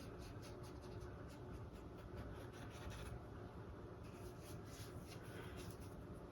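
Paintbrush dabbing and stroking thick acrylic paint onto a stretched canvas, faint scratchy strokes about four a second, slowing to a few scattered strokes after about three seconds.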